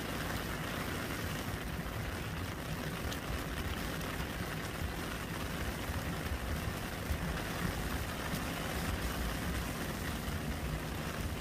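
Steady rain falling into a puddle, an even patter of drops on water with a low rumble underneath.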